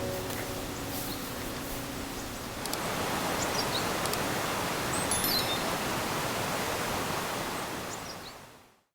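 Steady outdoor rushing noise with a few faint high bird-like chirps, fading out at the very end; the last notes of background music die away in the first couple of seconds.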